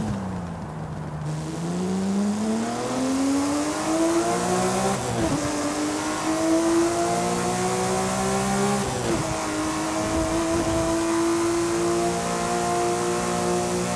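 Porsche 911 Speedster's flat-six accelerating through the gears: the engine note climbs steadily, drops sharply with an upshift about five seconds in and again about nine seconds in, then holds steady at a cruise. A rushing hiss runs underneath.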